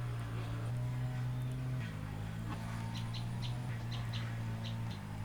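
A steady low hum, with a run of short, high bird chirps over it from about halfway in.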